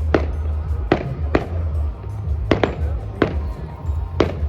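Fireworks exploding in a display, about seven sharp bangs at uneven intervals, over loud music with a heavy bass.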